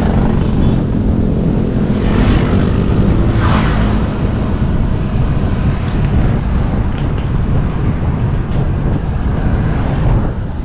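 Wind rumbling on an action camera's microphone during a bicycle ride, mixed with road traffic; an engine hum fades out over the first few seconds.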